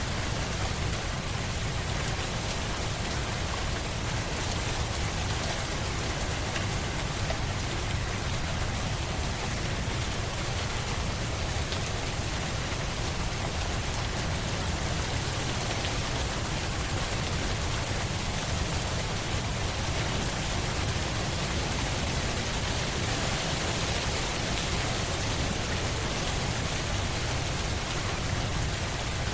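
Steady rain falling on surfaces, an even wash of drops with a deep low rumble underneath and no distinct drips or claps.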